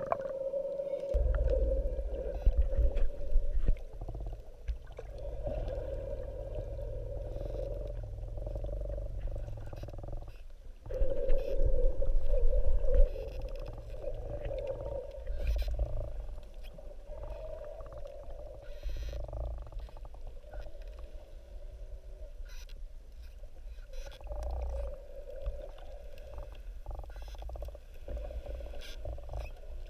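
Muffled underwater sound through a camera housing: a steady hum with low rumbling surges of water movement and scattered clicks.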